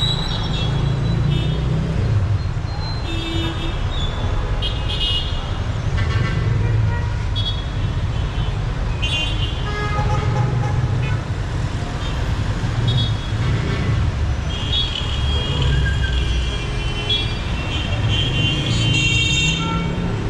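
Dense city street traffic: engines of cars, buses and motorbikes making a steady low rumble, with short car-horn toots sounding again and again, several close together near the end.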